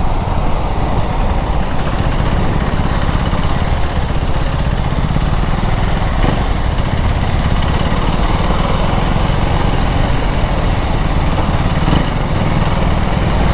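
KTM Duke 390's single-cylinder engine running steadily while riding, with wind and road noise.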